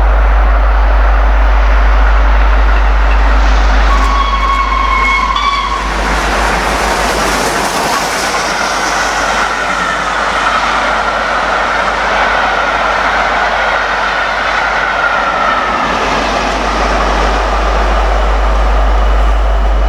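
Steam locomotive whistle giving one short blast about four seconds in. A steam-hauled train then rushes past at speed; the noise builds quickly, holds for several seconds and slowly fades.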